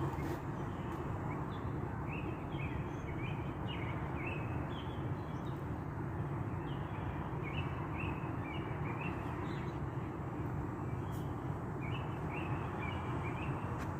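A bird singing at night: phrases of short, quick chirping notes, several a second, repeated again and again with brief pauses between. Under the song runs a steady low background rumble.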